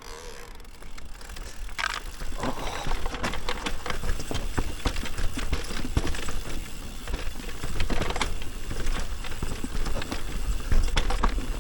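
Electric mountain bike rattling over a rough trail descent: dense, irregular clicks and knocks from the bike and tyres on dirt and rocks, over a steady low wind rumble on the microphone.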